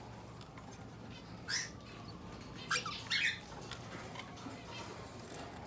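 Cockatiels giving three short, harsh, raspy calls: one about a second and a half in, then two close together near the middle.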